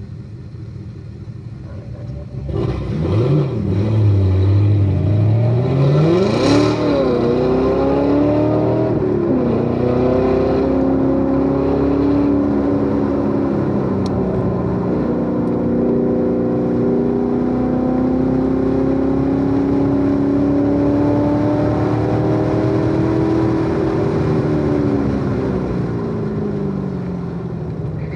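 Supercharged 6.2-litre V8 of a C7 Corvette Z06 under hard acceleration. It is quiet at first, then from about two and a half seconds in the revs climb quickly and dip briefly at a gearshift. It then pulls on at a steady, slowly rising pitch, and the revs fall near the end as the driver lifts off.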